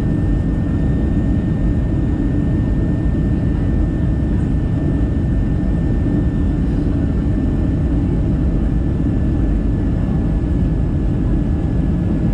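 Cabin noise of an Airbus A320-214 on final approach: a steady low rumble of airflow and its CFM56-5B engines, with a thin steady whine above it.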